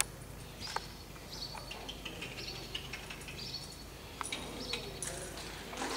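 Small birds chirping over and over in short high calls, with a few sharp clicks.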